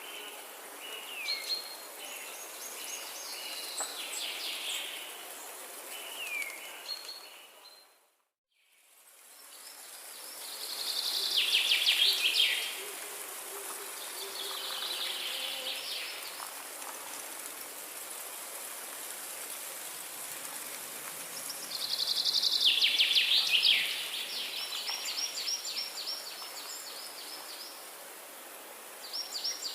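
Forest ambience with several songbirds calling and singing, including fast trilled phrases, over a steady high hiss. About eight seconds in, the sound fades out to silence for a moment and then fades back in.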